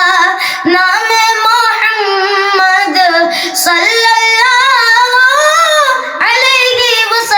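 A child singing a naat in a high voice, drawing out long, wavering held notes.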